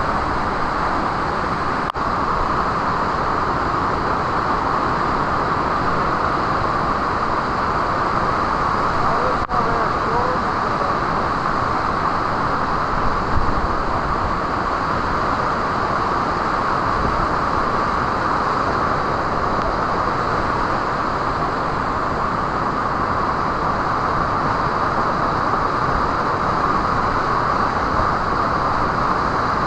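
Waterfall pouring steadily: a constant rush of falling water, unchanging in level, with two very brief dropouts.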